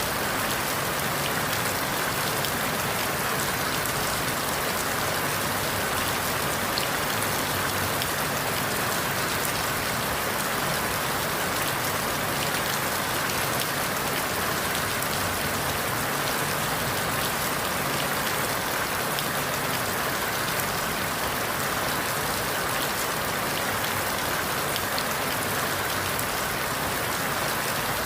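Steady rain falling through forest leaves, an even hiss with many small drop ticks, no thunder or other sounds standing out.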